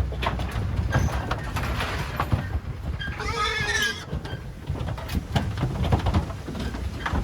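A pig squealing once for about a second, a little past three seconds in, over short knocks and clatter and a steady low rumble as pigs are loaded onto a livestock truck.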